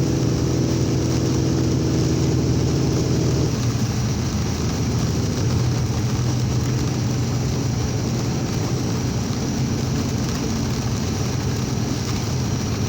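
Truck engine droning steadily under a constant wash of heavy rain and road noise while driving through a storm. The engine's clear pitch lines fade about three and a half seconds in, leaving mostly the rain-and-road hiss and a low drone.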